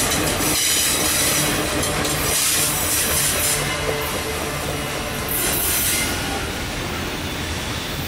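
Freight train rolling past trackside, its steel wheels running on the rails in a steady, noisy rush that eases off a little after about five seconds.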